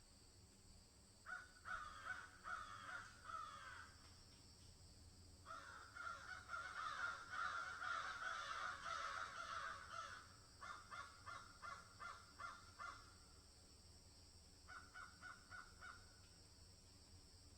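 Birds calling in groups of quick repeated calls, several overlapping in a longer, denser run through the middle, over a steady high-pitched hiss.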